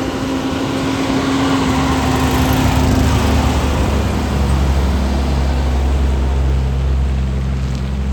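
Heavy tractor-trailer's diesel engine running loud and close, with a steady low drone. Its note shifts lower about four seconds in.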